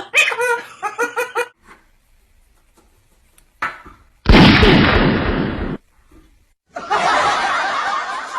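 A quick run of laughter, about five pulses a second, then a loud burst of noise about four seconds in that lasts over a second, then a longer, steadier rush of noise.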